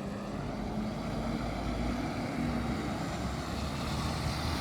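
Diesel engine of a MAN TGS 41.480 truck running with a steady low drone.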